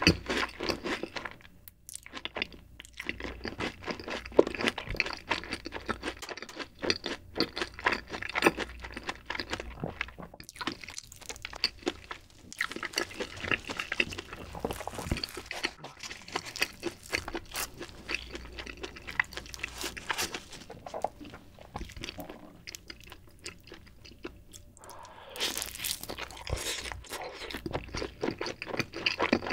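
Close-miked eating: chewing and crunching of cheese pizza with its crust. Partway through, gloved hands tear a slice off the pizza.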